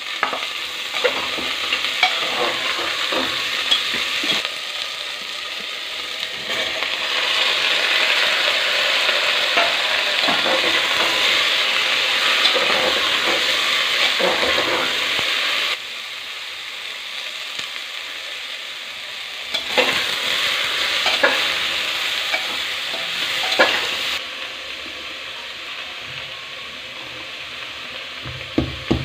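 Potato and bottle gourd pieces frying and sizzling in an open pressure cooker, stirred with a steel ladle that scrapes and knocks against the pot. The sizzle gets louder a few seconds in and drops suddenly about halfway. Near the end, a pestle starts knocking in a small metal mortar.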